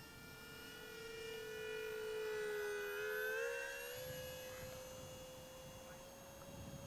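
Twin electric ducted fans of an RC jet whining in flight, a steady tone whose pitch sags slightly and then rises about three and a half seconds in, growing louder in the middle.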